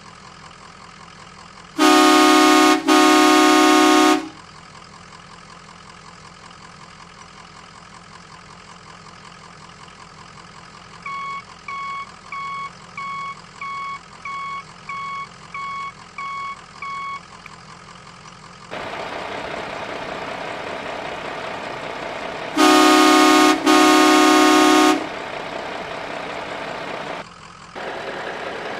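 Electronic vehicle sound effects from a remote-control toy excavator and dump truck: two long horn toots near the start, a run of about ten reversing beeps at roughly two a second in the middle, then a steady engine-like noise with two more horn toots over it, and the beeping starting again near the end.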